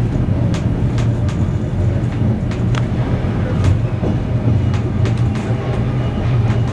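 Train running along the track: a steady low rumble with irregular sharp clicks and knocks from the wheels on the rails.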